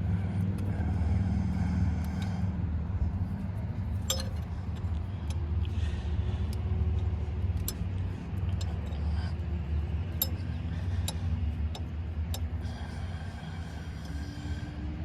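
Steady low background hum with scattered light metallic clicks and clinks of hand tools working on machine parts.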